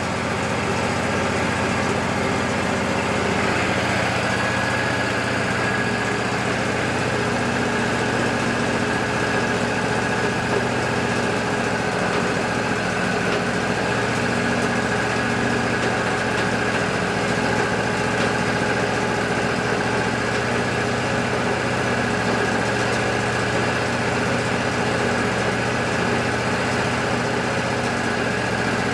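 Wood-Mizer LT40 band sawmill running with its engine at a steady drone and a thin steady whine above it.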